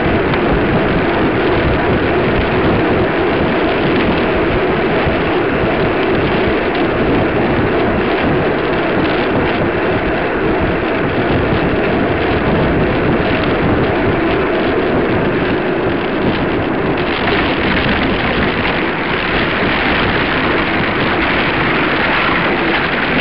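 Steady loud rushing noise of wind on the microphone, with no distinct events, turning brighter and hissier about seventeen seconds in.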